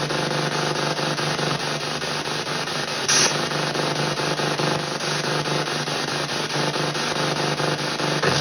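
PSB7 spirit box sweeping through radio frequencies in reverse, played over stereo speakers: a steady stream of choppy radio static, with a brief louder burst of noise about three seconds in.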